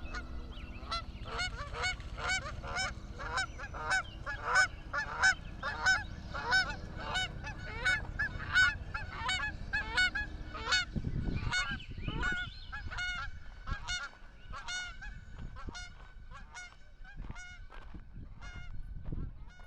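A flock of geese honking, many short calls in quick succession that thin out after the first two thirds, over a low steady hum that stops about halfway through.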